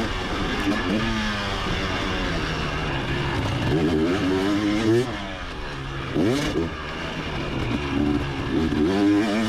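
Motocross bike's engine on the throttle, its pitch repeatedly rising and falling as the rider opens and closes the throttle through the track, with a quick sharp rev about six seconds in.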